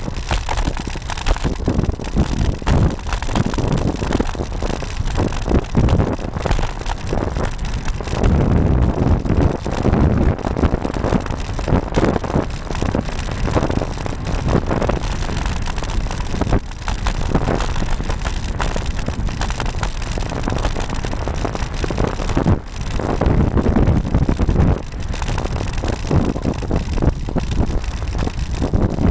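Wind buffeting the microphone of a camera mounted on a moving road bike, mixed with road and tyre rumble and frequent small jolts from bumps in the road.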